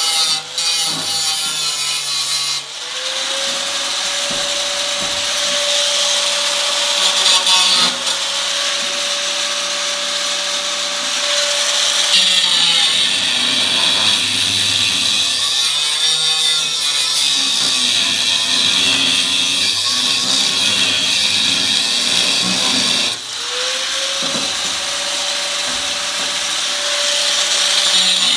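Handheld power grinder working the steel body panel: a high motor whine with a loud abrasive hiss. The tool spins up, holds steady under load, and winds down and restarts a few times.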